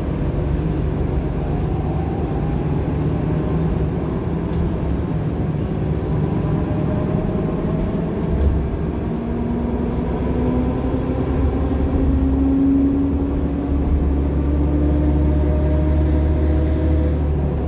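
2015 Nova Bus LFSA hybrid articulated bus running, its Cummins ISL9 diesel giving a steady low rumble under a whine from the Allison H50 EP hybrid drive that slowly rises in pitch as the bus speeds up. A single knock about eight seconds in, and a faint high whine near the end.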